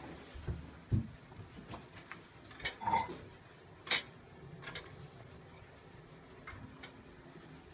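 A few scattered light clicks and knocks, about six over several seconds: a dull thump about a second in and a sharp click around four seconds in, with faint rustling between.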